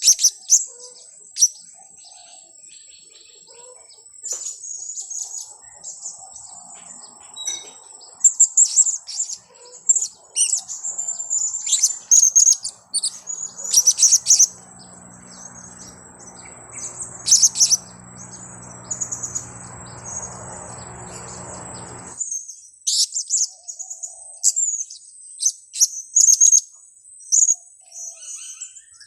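Blue-crowned hanging parrots (serindit) giving rapid, very high-pitched chirps in bursts, played as a lure call, over a steady high whine. A low hum swells in the middle and cuts off suddenly about 22 seconds in.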